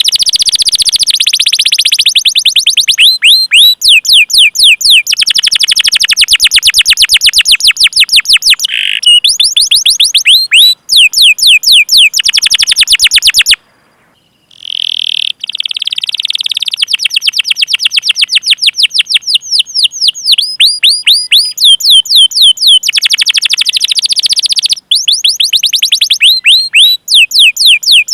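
Domestic canary singing loud, fast runs of repeated sweeping 'cuit cuit' chirp notes, several a second, with a short break about halfway through. This is the long rolling call song used as training song to prompt other canaries to sing.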